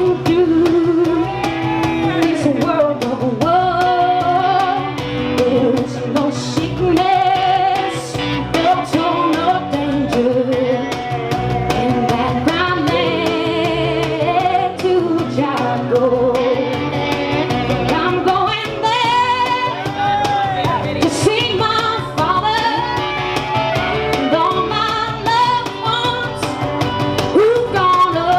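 Live band playing a song: a woman sings lead, holding notes with vibrato, over guitar accompaniment.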